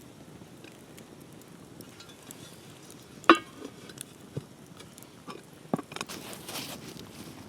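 Cooking utensils knocking against dishes or cookware during food preparation: one sharp ringing metallic clink about three seconds in, then a few lighter knocks and a short rustling hiss.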